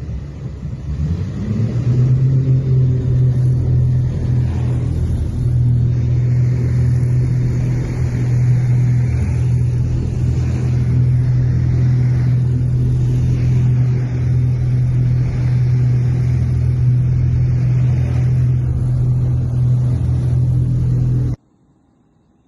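Aircraft engine running with a steady, loud drone and a rumble beneath it; the pitch rises over the first two seconds, then holds. It cuts off suddenly about a second before the end.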